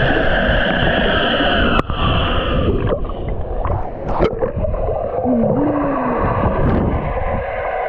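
Muffled, gurgling water noise as heard with the camera's microphone underwater, with a few sharp clicks and a short wavering tone partway through.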